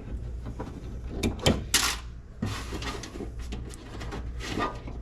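Clicks, knocks and scraping as the two small retaining clips at the bottom of a Jeep Liberty's front window regulator are worked loose inside the door, with the loudest scrape about two seconds in.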